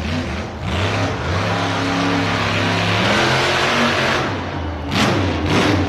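Monster truck engine revving loudly, its note holding steady with a rush of noise building in the middle, then fading about four seconds in. A couple of sharp knocks follow near the end.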